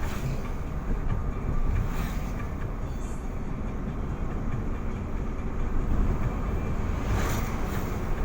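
A road vehicle in motion: a steady low rumble of engine and tyres, with a couple of short clatters near the end.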